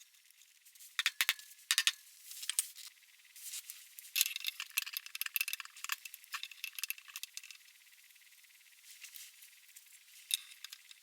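Irregular light metallic clicks, clinks and rattles, busy for the first several seconds, then sparse with one last short cluster near the end.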